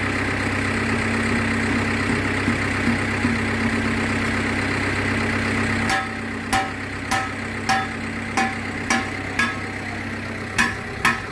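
An engine running steadily. About six seconds in its sound drops, and a series of about nine short ringing metallic clinks follows, roughly two a second.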